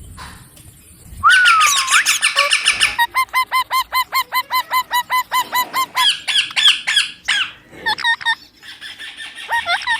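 Young ring-necked parakeet squawking: after a short quiet, a rising squawk and a rapid run of harsh calls, then a fast, even string of short chirping calls about eight a second, followed by more varied squawks near the end.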